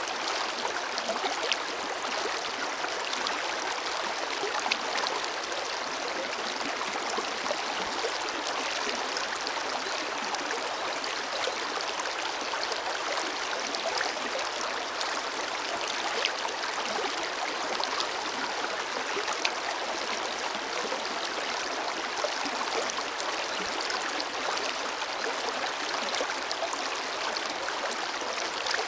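Forest river flowing: a steady rush of water with small splashes and gurgles scattered through it.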